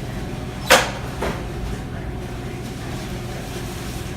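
Steady low hum of an idling car, broken by a sharp thump under a second in and a softer knock about half a second later.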